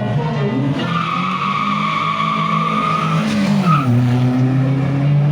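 Rally car engine running hard while its tyres squeal in one long squeal of about two seconds, starting about a second in, then a brief second squeal. The engine note drops near the four-second mark and then holds steady.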